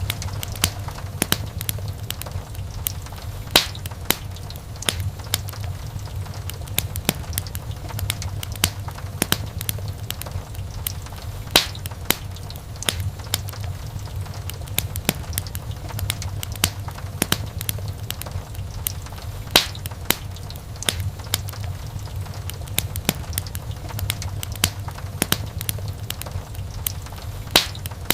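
Wood fire burning in a fireplace: irregular crackles and pops, a few much sharper than the rest, over a steady low rumble of the flames.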